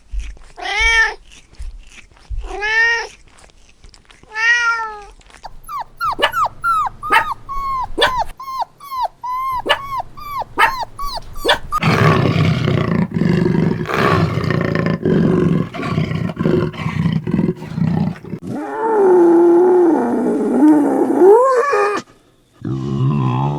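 A run of different animal calls: four short rising-and-falling calls in the first five seconds, then a quick string of short falling calls, then several seconds of noisy growling, and near the end one wavering drawn-out call.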